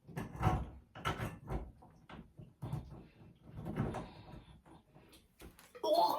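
Irregular handling noises: a string of light knocks, bumps and rubs, several of them about a second apart.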